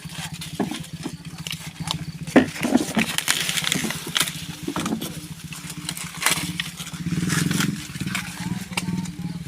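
A small engine running steadily with an even, low pulsing hum, overlaid by scattered knocks and rustles; the hum swells briefly about seven seconds in.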